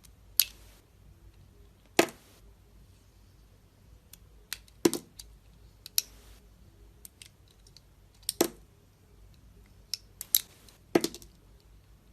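A blade cutting into a bar of soap: about seven sharp, crisp cuts at irregular intervals, several trailing off in a short crumbly hiss.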